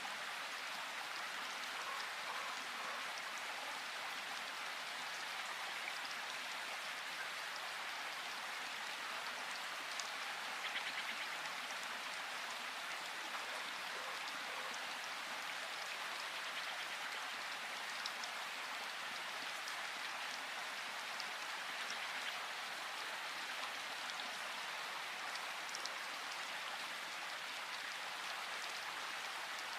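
Steady rain falling in a forest, with single drops standing out as small ticks and a brief, slightly louder moment about ten seconds in.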